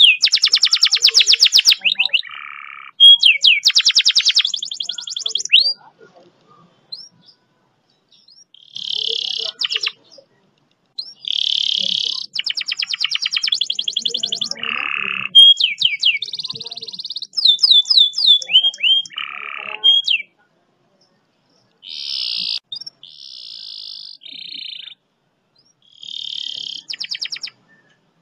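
Domestic canary singing in phrases of very fast, long trills and runs of rising, whistled notes, with short pauses between phrases. This is the long 'speed roll' song used to coax other canaries into singing.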